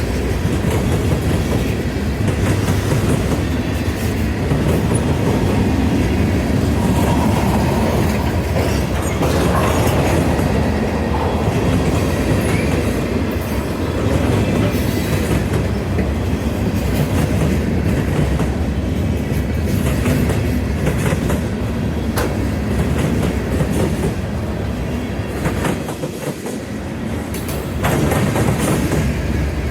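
Railroad cars rolling past close by, a steady rumble with wheels clacking over the rail joints and some faint wheel squeal, easing briefly just before the end.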